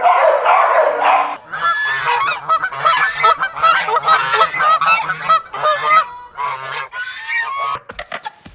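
Geese honking: a run of short, repeated honks, two to three a second, that thin out and grow fainter near the end.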